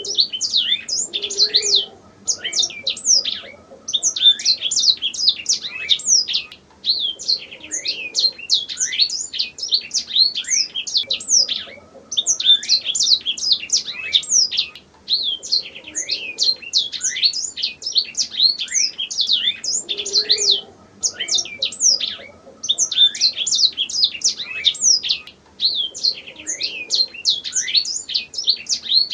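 Domestic canary singing a long, fast song of rapid downward-sweeping trilled notes, in phrases broken by brief pauses every few seconds.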